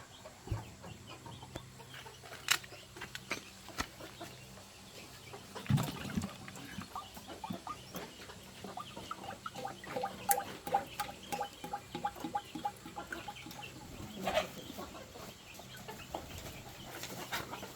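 Chickens clucking, with a fast run of clucks about halfway through, and a few sharp knocks scattered among them.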